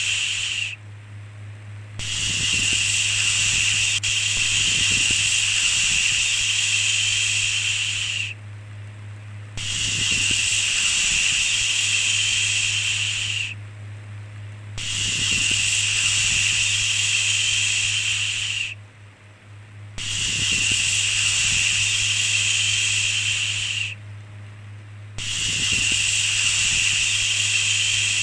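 Long 'shhh' shushing sounds, each lasting about five to six seconds, repeating with short pauses of about a second between them, over a steady low hum.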